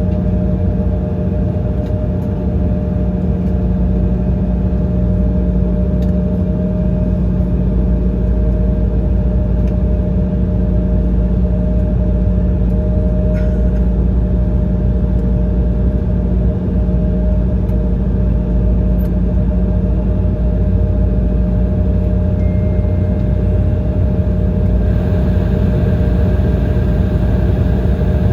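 Cabin noise inside an Embraer 170 airliner: its turbofan engines run steadily with a low rumble and a couple of steady hums. A faint hiss grows slightly near the end.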